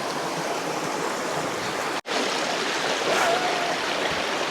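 Steady rush of water flowing over rocks, broken by a sudden brief dropout about two seconds in.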